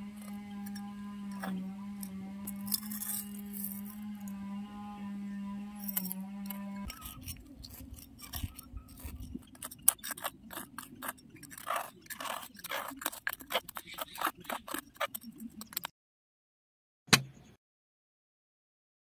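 A small metal trowel scraping and clicking against grit and dry cement powder in a terracotta pot, in quick irregular strokes. A steady low hum runs under the first several seconds. The scraping stops a few seconds before the end, leaving one sharp click.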